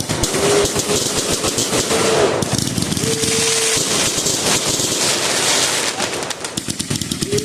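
Fireworks going off in a rapid, continuous string of pops and crackles, like a long firecracker string.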